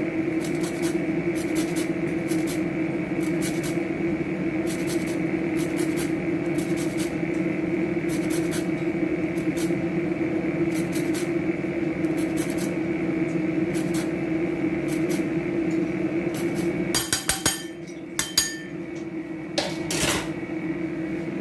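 Lime being zested on a grater: even rasping strokes, roughly one or two a second, over a steady low hum. Near the end the strokes stop and a few clinks and knocks follow.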